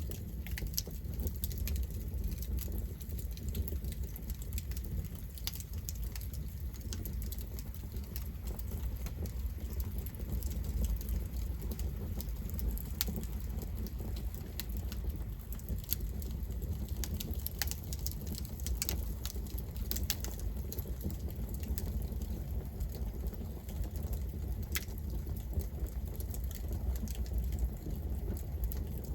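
Campfire burning: scattered sharp crackles and pops of burning wood over a steady low rumble.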